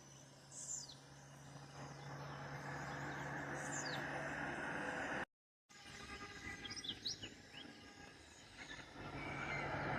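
Faint outdoor ambience with birds giving short, falling chirps over a steady low hum and background noise. The sound cuts out briefly just past halfway, then resumes with more chirps.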